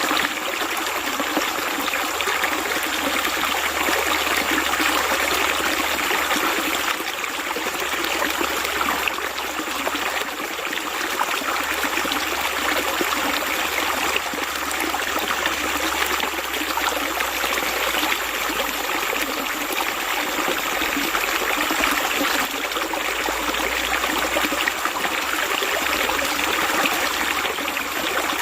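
Water running steadily with a rushing, trickling sound, as of a small stream, holding even throughout with only slight swells.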